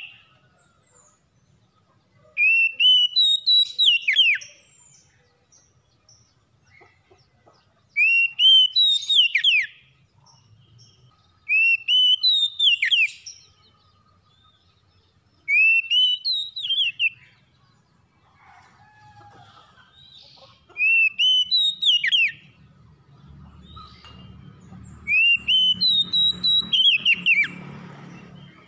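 Oriental magpie-robin (kacer) singing the same short whistled phrase over and over, roughly every three to four seconds: a rising whistle that breaks into quick downward sweeps. A low rumbling noise sits under the last few phrases.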